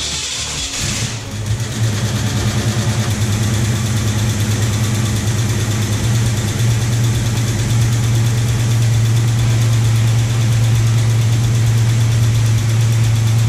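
A 1966 Ford Mustang's 289 V8 fires and catches within about a second, then settles into a steady idle. It is running on a newly fitted Pertronix electronic ignition in place of the points, and it starts right up, showing the conversion works.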